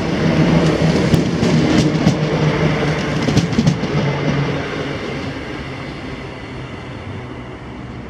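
A ScotRail passenger train running through the station with a steady low hum. Its wheels click over rail joints for the first few seconds, then the sound fades as it moves away.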